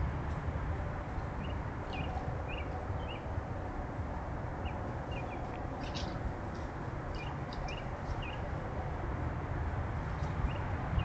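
Small birds chirping, short high calls repeated about every half second in runs, with a few sharper calls midway, over a steady low rumble.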